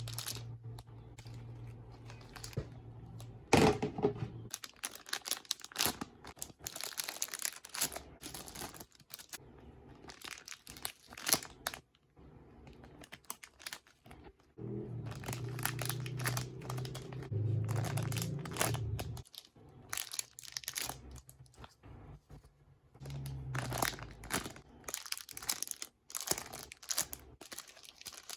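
Crinkling and rustling in irregular clusters as squishy toys and their packaging are handled.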